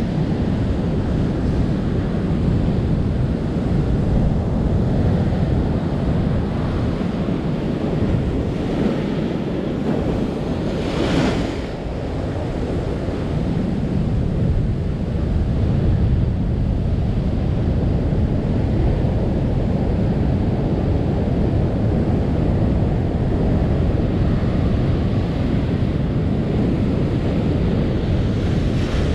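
Ocean surf with wind buffeting the microphone, a steady low rumbling wash, with one short hiss about eleven seconds in.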